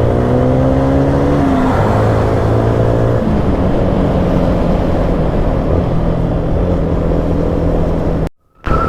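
Motorcycle engine running on the move, with wind rush. Its note climbs slightly, then drops in steps about a second and a half in and again around three seconds in, like gear changes, and then holds steady. The sound cuts out abruptly for a moment near the end.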